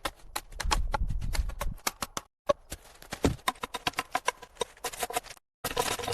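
Rapid, irregular knocks and clicks of hand-tool work, several a second, broken twice by abrupt cuts to silence.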